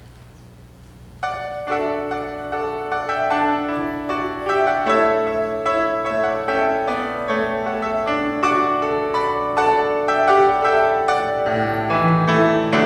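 Piano starts playing about a second in, chords and a melody, after a short moment of low room noise.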